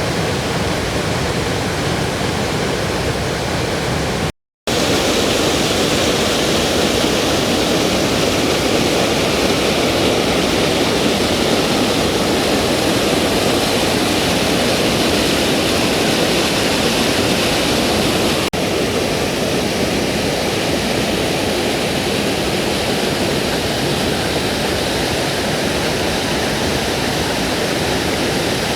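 Waterfall rushing steadily, a loud even sound of falling water that cuts out for a moment about four seconds in.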